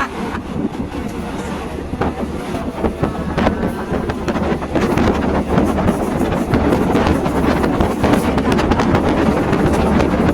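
Passenger train running along the track, heard from aboard: a steady rumble with rattling and clicks from the carriage and wind on the microphone. It grows louder about four seconds in.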